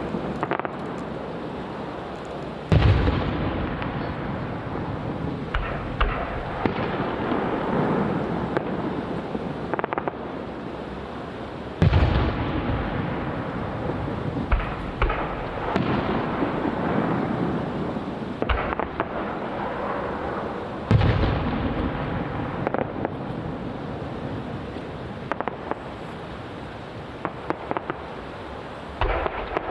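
Aerial fireworks shells bursting: three loud booms about nine seconds apart, each followed by a fading rumble, with smaller bangs and continuous crackling in between.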